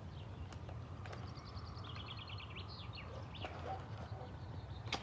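Faint bird chirping: a quick run of high repeated notes about a second in, lasting about two seconds, over a steady low hum. A few soft rustles and clicks of wrapping paper being torn open come in between.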